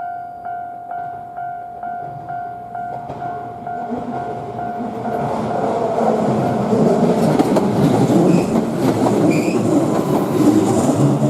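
A railway level-crossing warning bell dings about twice a second. A Shizuoka Railway train then approaches and passes, its wheel and running noise rising to drown out the bell, with a brief wheel squeal on the curve near the end.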